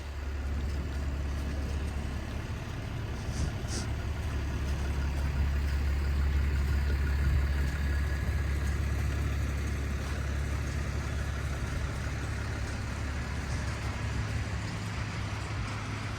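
A motor vehicle's engine idling close by, a steady low rumble.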